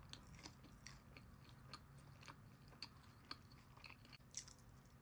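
Close-miked chewing of a mouthful of food, with many small sharp, irregular mouth clicks.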